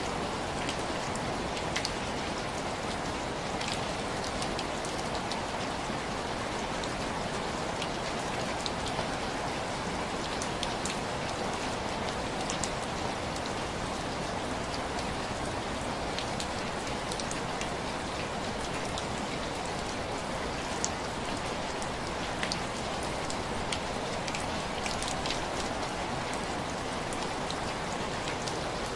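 Heavy rain falling steadily, with scattered small sharp ticks and crackles over the even hiss.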